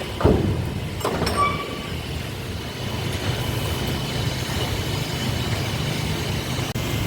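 Workshop machinery running with a steady low hum and a faint high whine. About a quarter second in and again about a second in there are two sharp metal knocks, the second with a short ringing clang.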